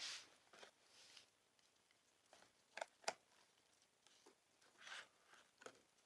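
Near silence, broken by a few faint small clicks and a soft rustle.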